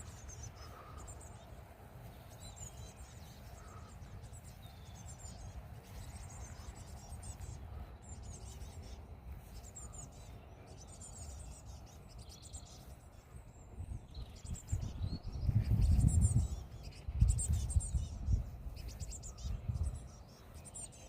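Small birds chirping in repeated short, high-pitched calls, over a low rumble that swells into several loud bursts about two-thirds of the way through.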